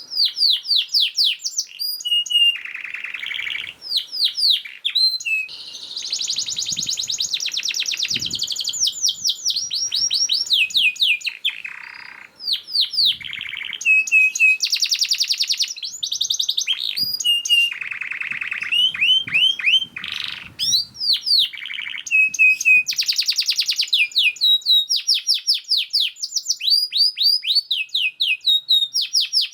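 Domestic canary singing a long, fast, dense song: quick runs of repeated rising and falling whistled notes, alternating with rapid trills and buzzy rolls, almost without a pause.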